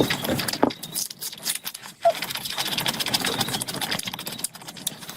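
Close-miked eating sounds: wet chewing and lip smacking in a dense run of quick clicks and smacks, from someone eating curry.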